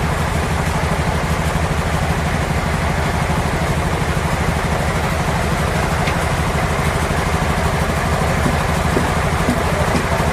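Engine running steadily with a low, even pulsing hum.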